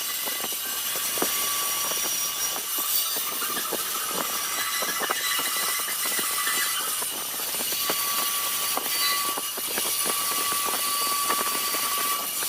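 Steady machine noise with a thin whine and many small ticks running through it.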